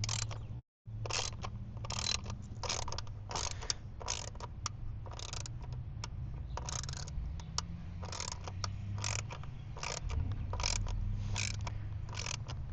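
Hand ratchet clicking as it slowly drives a coil pack bolt into the engine's valve cover, about two to three clicks a second at an uneven pace. The bolt is being turned gently because its thread insert has just been glued back in with epoxy.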